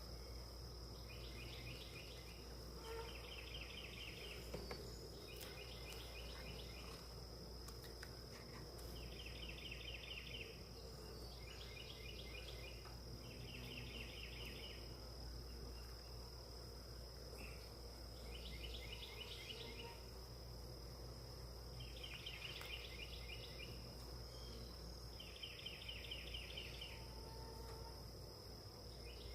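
Insects calling: a steady high-pitched drone, with repeated chirps about a second long, each a fast run of pulses, coming every few seconds over a low hum.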